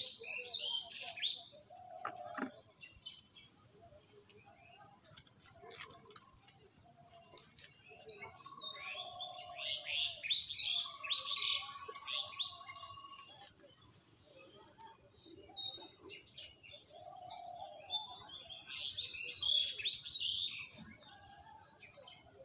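Small birds chirping in three spells of quick, high notes: at the start, in the middle, and again near the end.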